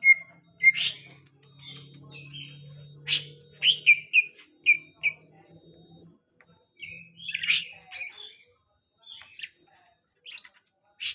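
Cucak hijau (green leafbird) singing a varied run of quick chirps and short whistled notes, some falling in pitch and a few higher whistles in the middle. It pauses more often near the end.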